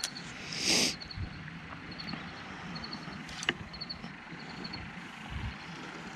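Crickets chirping in short repeated trills at one high pitch, with a brief loud rush of noise about a second in and a single sharp click near the middle.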